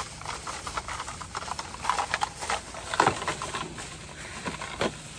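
Gutter pieces being handled and fitted together: a run of small irregular clicks, knocks and rustling scrapes, with sharper knocks about three seconds in and again near the end.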